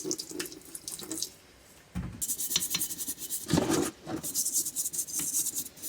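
A greasy metal knuckle part being scrubbed and sloshed in a bucket of petrol to wash off grease and brake dust. It is scratchy rubbing with drips, a short pause about a second and a half in, then quicker repeated scrubbing strokes.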